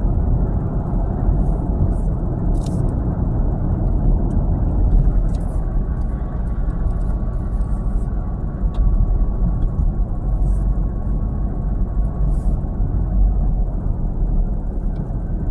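Steady low rumble of a vehicle being driven: engine and road noise. A faint thin whine sits under it through the middle of the stretch, and a few light ticks come here and there.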